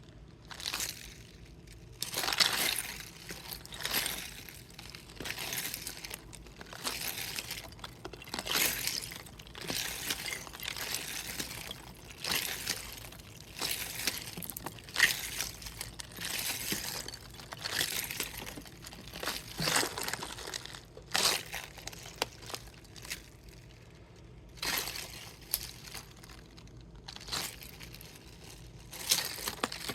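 Crinkly plastic water bottle, partly frozen, being squeezed and handled: irregular crackling of the thin plastic with loose ice and water shifting inside, in short bursts every second or so.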